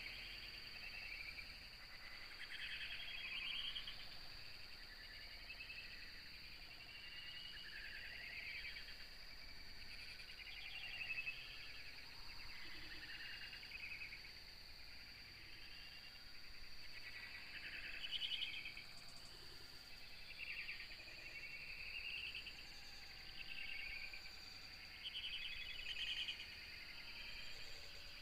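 Morning birdsong: several short, scattered chirping calls every second or two, over a steady high-pitched insect drone.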